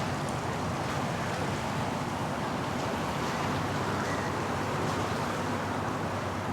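Steady outdoor background rush, a mix of wind on the microphone and distant waterfront traffic noise, with no distinct events.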